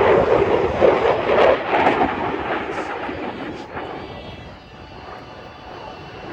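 Jet noise from a Eurofighter Typhoon FGR4's twin EJ200 turbofans, a loud rushing rumble for the first two seconds that then fades away steadily as the jet moves off.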